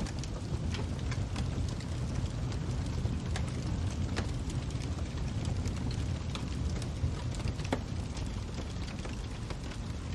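Fire crackling: a steady low rumble with sharp, irregular pops and snaps scattered throughout.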